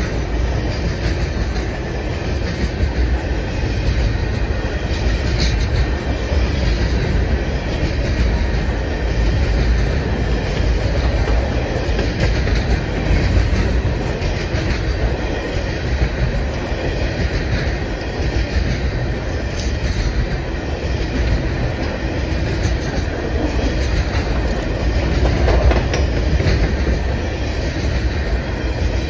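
Coal hopper cars of a freight train rolling past: a steady low rumble of wheels on rail, with occasional clicks as the wheels pass over rail joints.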